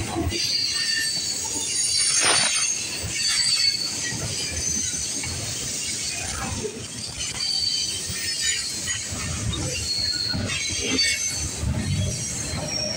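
CN freight train's cars rolling past, steel wheels giving short high-pitched squeals over a steady rumble, with scattered knocks and rattles from the cars.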